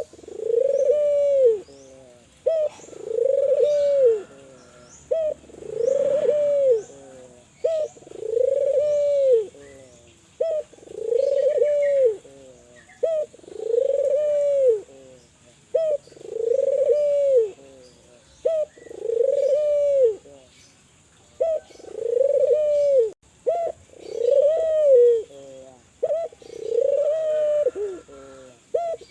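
Spotted dove (tekukur) cooing over and over, a loud arched coo phrase about every two seconds. Small birds chirp faintly in the background.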